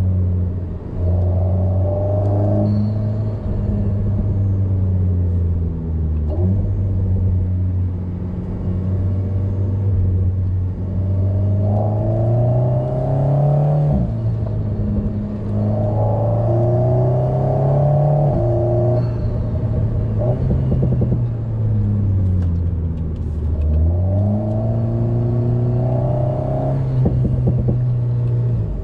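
Alpine A110's turbocharged four-cylinder engine heard from inside the cabin, its pitch climbing under acceleration and falling back several times as the driver backs off and changes gear. A few short crackles come near the middle and near the end.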